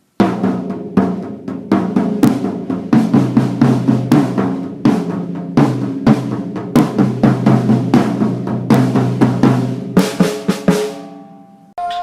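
Rock music dominated by a loud drum kit, snare and bass-drum hits over a steady bass line, fading out about eleven seconds in.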